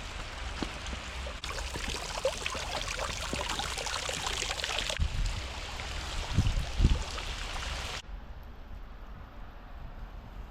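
Hot spring water running and splashing, full of small crackles; the sound changes abruptly a few times, growing quieter for the last couple of seconds. A few low thumps, likely wind on the microphone, come about two thirds of the way in.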